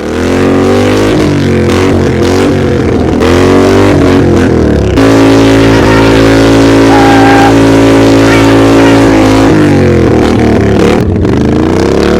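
Racing lawnmower's engine running hard in first gear as it spins donuts, its pitch swinging up and down with the throttle. It holds a steady high note for several seconds in the middle, then drops and revs back up.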